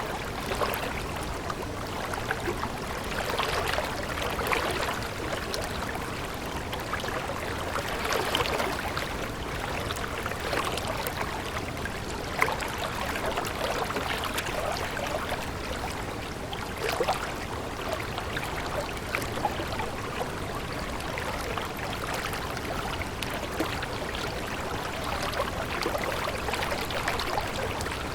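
Water running in a stream: a steady rush dotted with many small splashy ticks.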